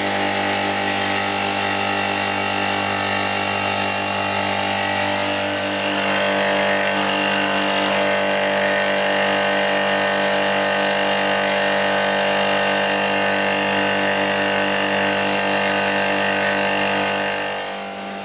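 Refrigeration machinery of an ice builder chiller running: a loud, steady electric motor hum with a pulsing tone in it. It eases off slightly near the end.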